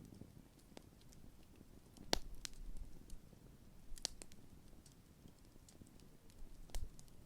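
Large wood campfire crackling: scattered sharp pops from burning wood, the loudest about two seconds in, a pair near four seconds and another near the end, over a faint low rush of the flames.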